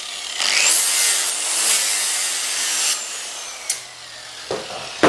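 Grinder grinding the steel cutting edge of a lawn mower blade, a loud, harsh hiss that stops about three seconds in. A couple of sharp knocks follow near the end.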